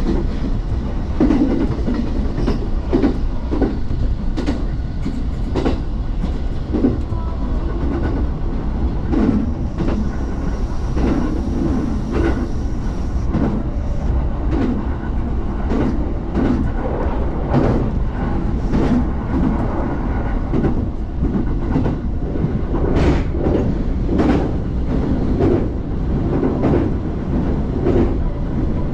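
Train running on rails: a steady low rumble with frequent clicks and knocks from the wheels over rail joints.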